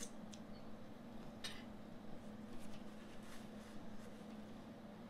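Faint chewing of crispy fried chicken, with a few short crunches, the strongest about one and a half seconds in, over a steady low hum.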